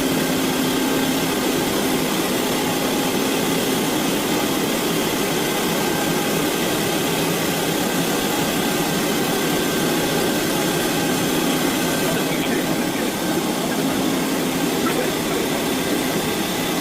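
T535 wet escalator and moving-walkway cleaning machine running steadily, its scrub brushes washing the steps while its vacuum sucks up the water: a constant whirring hum with a faint steady whine.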